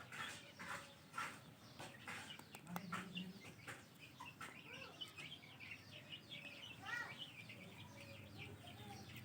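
Ringneck parrot chicks giving faint, rapid begging chirps while being hand-fed, with a few soft clicks in the first seconds.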